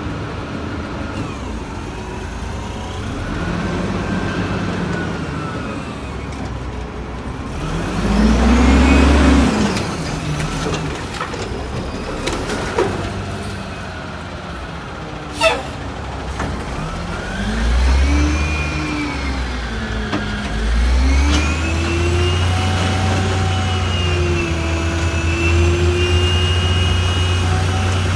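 Heavy diesel engine of a 1989 WhiteGMC Xpeditor garbage truck being revved hard while it packs dumpsters. The revs swing up and down a few times, then are held high through the last several seconds. A short sharp sound cuts in about halfway through.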